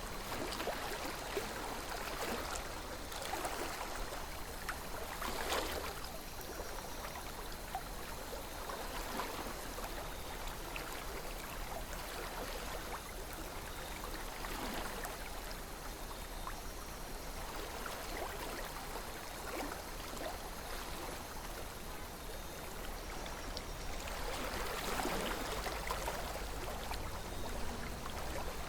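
A calm river flowing steadily, with small gurgles and splashes rising and falling every few seconds.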